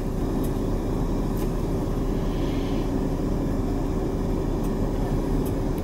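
Steady low hum of a car idling, heard inside the cabin.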